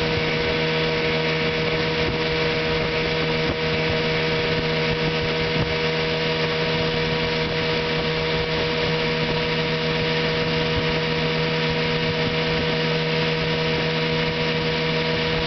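1975 Chrysler 15 hp two-stroke outboard motor running steadily at one speed, freshly tuned up and running well.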